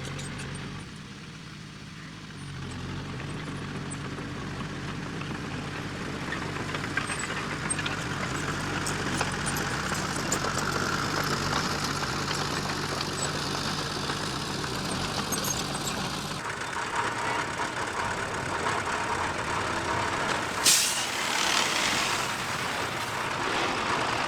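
Diesel engine of heavy earthmoving machinery running steadily. Its sound changes about two-thirds of the way in, and a brief sharp burst of noise comes near the end.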